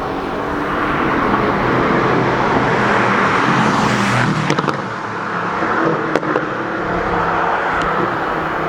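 Mercedes-AMG GT S twin-turbo V8 running through an Akrapovic Evolution titanium exhaust with a deep note, growing louder over the first few seconds and then holding steady.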